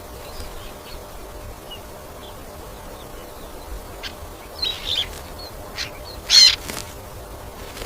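Goldfinch chirping: faint, scattered high chirps, then louder calls about five seconds in and the loudest, fullest call about six and a half seconds in.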